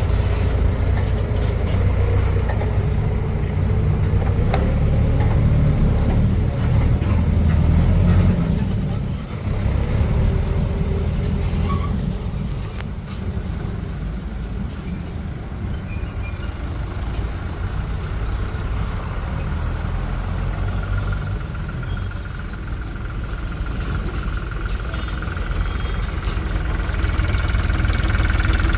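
Heavy diesel engine of farm machinery running, its low throb dipping briefly about nine seconds in. A steady high whine joins it over the last third.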